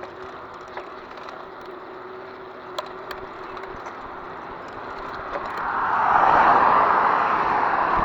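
Riding noise from a bicycle on the move: tyres rolling and air rushing over the microphone, with a few light clicks, swelling louder about five seconds in.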